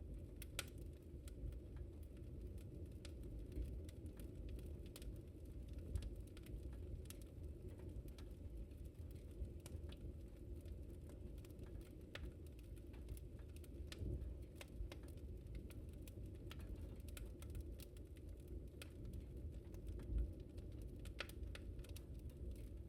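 Wood fire in a fireplace crackling, with scattered, irregular pops and snaps over a low, steady rumble of the flames.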